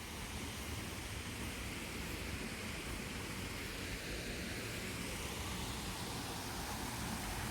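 Steady, even outdoor background hiss with a low rumble underneath.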